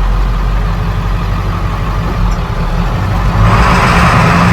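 Old truck's engine running while driving, heard from inside the cab, with the rattling, grinding noise of a loose exhaust-stack bracket whose bolt grinds in and out. The noise grows louder about three and a half seconds in.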